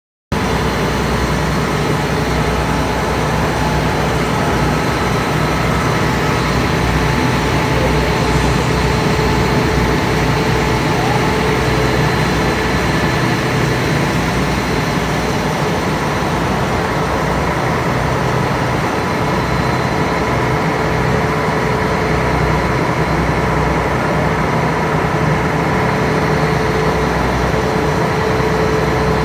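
Passenger ferry's engine running steadily: a constant low rumble with a steady hum above it.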